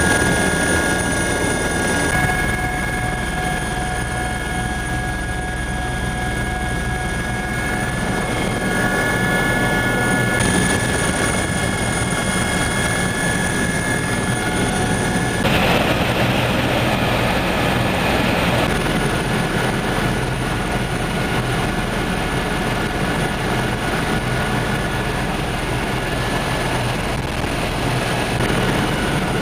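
Helicopter in flight, heard from aboard: steady rotor and engine noise with several steady high tones, and a few seconds of louder hiss about halfway through.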